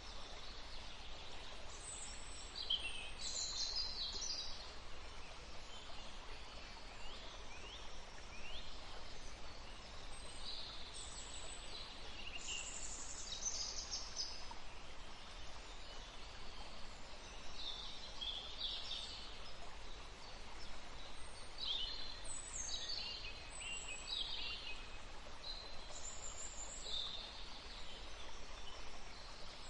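Birds singing in short, high-pitched phrases that recur in bursts every few seconds over the steady rush of a forest stream.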